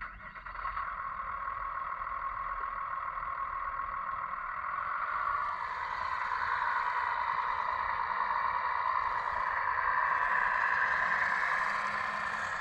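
Small electric hydraulic pump and drive of a 1/15-scale RC construction machine running steadily, a whirring noise that starts abruptly and grows a little louder about halfway through.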